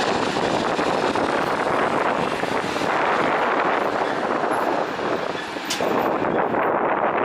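Steady rushing noise of a jet airliner's engines, with wind buffeting the microphone; it dips briefly and there is a sharp click near the end.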